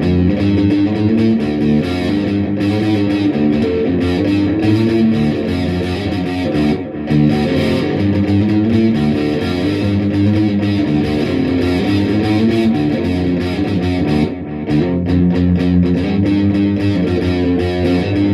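Left-handed Dean electric guitar played through distortion, a continuous rhythm riff with a couple of brief breaks.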